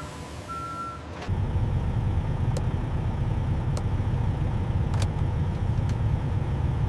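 A short high beep, then about a second in a truck engine's low steady rumble comes up and keeps running, with a few sharp ticks over it.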